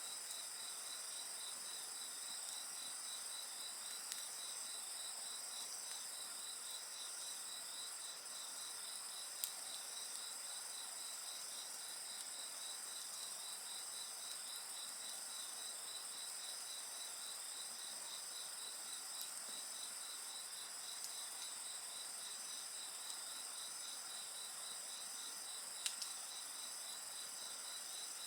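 Night insects such as crickets chirping and trilling steadily in a high, dense chorus, one of them repeating a rapid, even chirp. Two sharp pops from the burning campfire, one about a third of the way in and one near the end.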